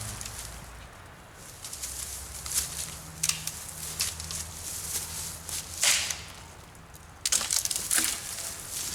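Wooden branches cracking and snapping as they are levered and broken in a tree fork by hand, with irregular crackling and one loud crack about six seconds in, then several more cracks near the end.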